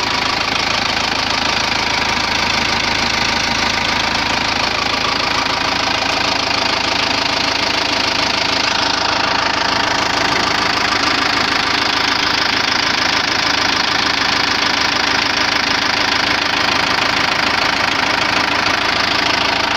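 Mercedes-Benz 608D's OM314 3.8-litre four-cylinder diesel idling steadily shortly after a cold start, with the clatter typical of an old diesel.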